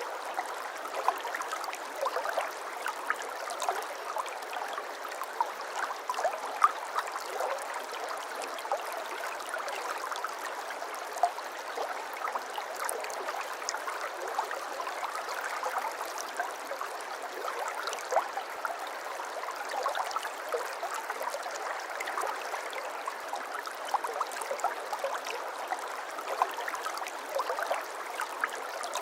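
Shallow water flowing and babbling steadily over stones, with many small splashes and trickles.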